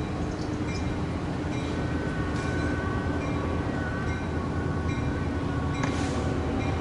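Caltrain diesel push-pull commuter train of gallery cars pulling out of the station, with F40PH-2C locomotive 922 pushing from the rear: a steady engine hum over rolling rumble, and one sharp click about six seconds in.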